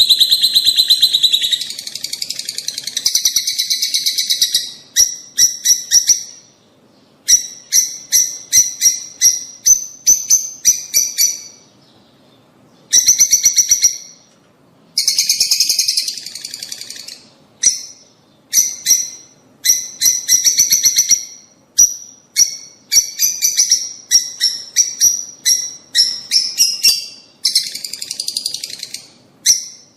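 Lovebirds calling: rapid trains of shrill chirps in runs of one to a few seconds, separated by short pauses.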